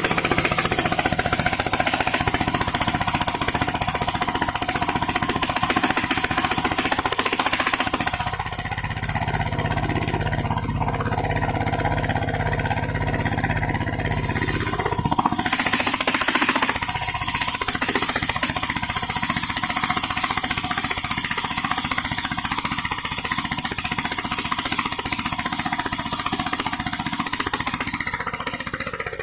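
Homemade engine-driven circular sawmill running hard with its saw blade cutting timber: a fast engine chatter under a steady high whine from the blade. For a stretch from about 8 to 15 seconds the sound changes to a lower, steadier hum and slightly quieter, before the full cutting sound returns.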